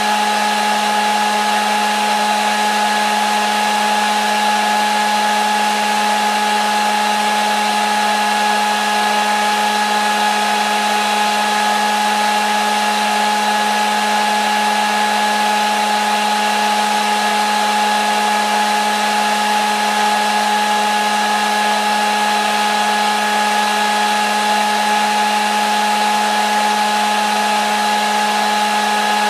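Hair dryer running continuously at a constant speed: a steady rush of air with a fixed motor hum and whine, no change in pitch or level.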